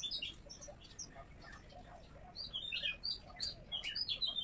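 Birds chirping: a quick, irregular jumble of short high notes that gets busier about halfway through.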